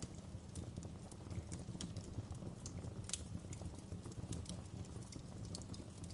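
Wood fire crackling, with irregular sharp pops over a low steady rumble; one pop about three seconds in stands out.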